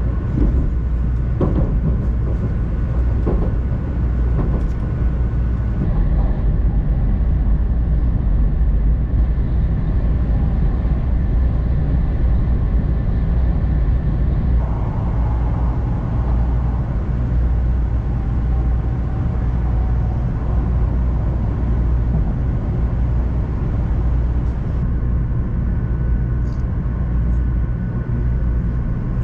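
500 Series Shinkansen running, heard from inside the passenger cabin: a steady, low rumble of running noise with a few faint clicks in the first few seconds.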